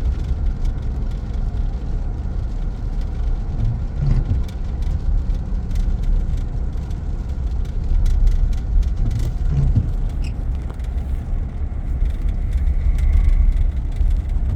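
Pickup truck driving, heard from inside the cab: a steady low rumble of engine and road noise.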